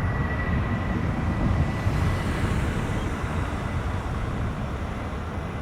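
Jet aircraft engines running with a deep low rumble and a thin steady whine; the whine fades out about two seconds in and the rumble slowly dies away.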